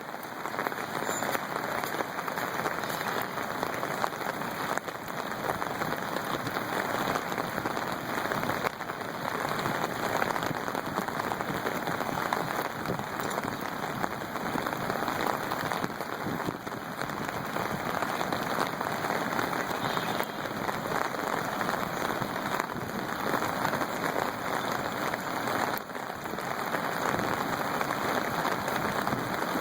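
Steady rush of water, an even hiss with no breaks.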